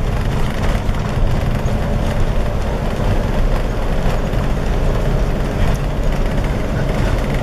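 Steady engine and road noise of a vehicle driving, heard from inside the cabin, with a strong low rumble.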